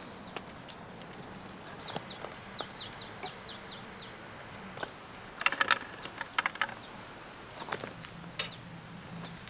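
Outdoor ambience: a bird sings a quick run of short falling notes, about four a second, over a steady high-pitched tone. Midway comes a short cluster of sharp clicks and taps.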